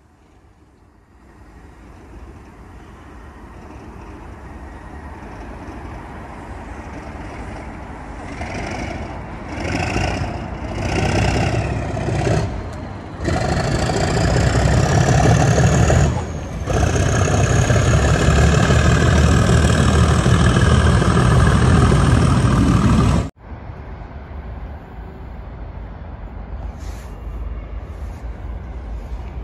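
Network Rail test train led by driving trailer 9703 pulling away and passing close by: its rumble builds slowly, then turns loud and steady with a rising whine, and cuts off suddenly about 23 seconds in. A fainter, more distant train rumble follows.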